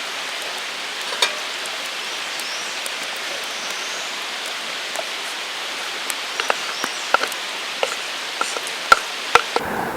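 Wood campfire crackling: a steady hiss with scattered sharp pops, coming more often in the last few seconds.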